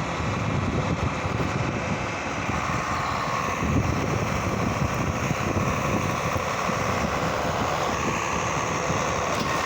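Tractor running steadily while pulling a John Deere 530 round baler through the hay, with a faint steady whine and wind buffeting the microphone.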